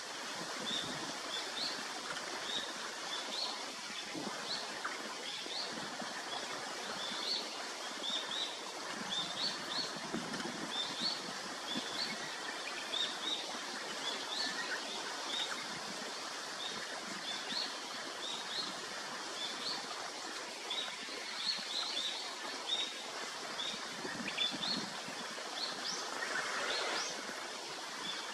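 A bird's short, high chirps repeating roughly once a second, over a steady outdoor hiss.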